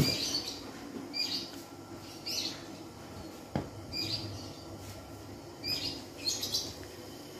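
A small bird chirping repeatedly: short, high, down-sweeping calls about once a second, some in quick pairs. A single sharp click sounds about three and a half seconds in.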